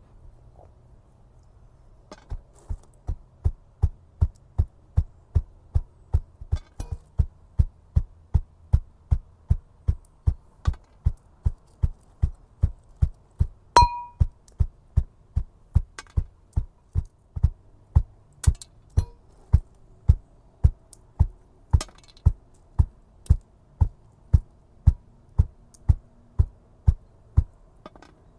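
Steady rhythmic thuds, about two a second, starting about two seconds in, with one bright metallic ping about halfway through.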